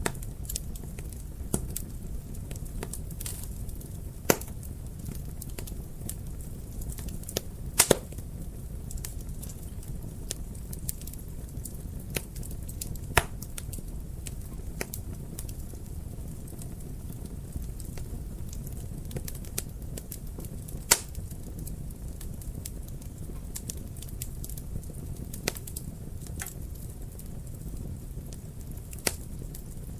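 Wood fire crackling in a fireplace: a steady low rumble of the flames with scattered sharp pops and snaps. The loudest is a quick double pop about eight seconds in.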